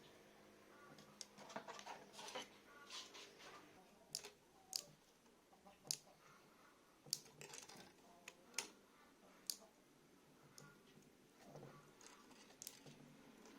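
Faint, scattered sharp clicks and taps, about a dozen at irregular intervals.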